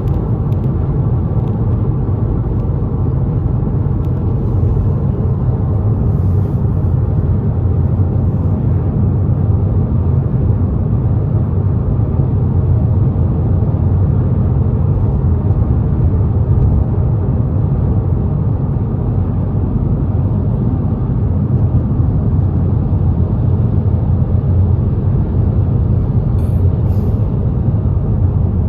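Steady low road rumble of a car driving at highway speed: tyre and engine noise with no breaks or changes.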